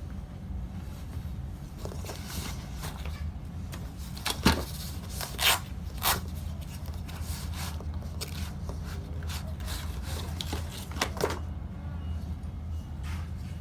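Long-bladed hand saw cutting into a tree trunk: uneven rasping strokes of the teeth through wood, over a steady low hum.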